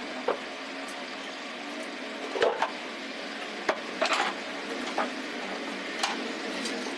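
Scattered light clicks and knocks, about eight in seven seconds, over a steady low hum: parts and tools being handled while a table fan is worked on.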